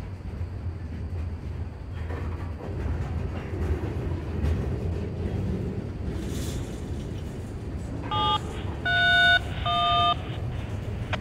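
Freight train of covered hopper cars rolling past, a steady low rumble of wheels on rail. About eight seconds in come three short beeps, the middle one the longest.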